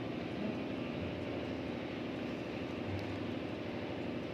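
A steady machine hum with an even, unchanging pitch.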